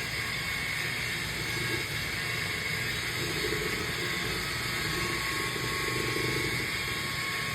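Electric buffer running steadily while buffing a plastic fire truck light globe, a continuous motor whir with a pad hiss that swells and eases as the work is pressed on.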